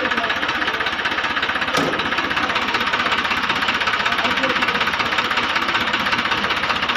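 Tractor engine running steadily with a fast, even clatter, and a single sharp knock about two seconds in.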